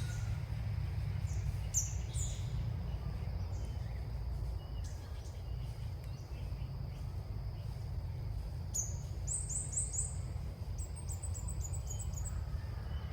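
Small birds chirping in short high notes, with a quick run of repeated chirps from about nine seconds in, over a steady low rumble.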